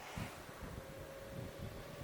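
Honda Gold Wing motorcycle under way, heard from on board: low engine and road rumble with wind buffeting on the microphone, and a faint steady whine that rises slightly in pitch.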